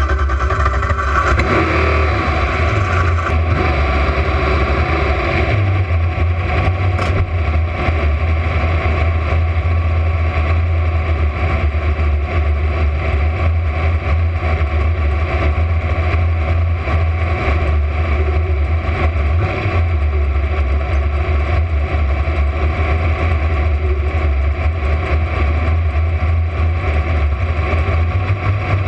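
Camaro drag car's engine running steadily, loud and deep, without revving.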